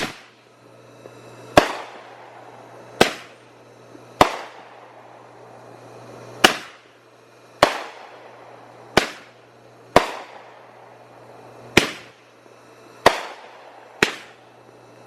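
Consumer aerial firework going off in a steady series of about ten loud bangs, one every second or so, each trailing off in a short echo.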